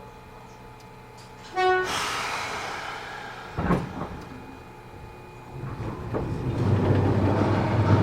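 Matsumoto Electric Railway 3000 series electric train heard from inside the car as it sets off from a stop. A short horn blast comes about one and a half seconds in, then a burst of hissing and a single knock. From about five seconds in, the traction motors hum and the wheels rumble, growing louder as the train pulls away.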